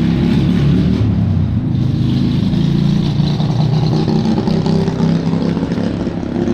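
A loud motor vehicle engine rumbling with a low, wavering pitch, dropping away near the end.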